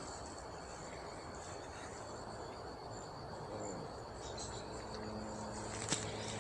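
Faint outdoor ambience: a steady high insect trill, crickets or similar, with a faint low hum joining about two-thirds of the way through and a single soft click near the end.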